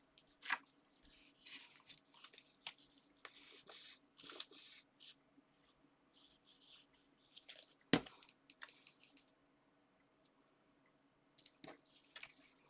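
Paper and card being handled: short rustling and sliding bursts with scattered clicks, and one sharp knock about eight seconds in.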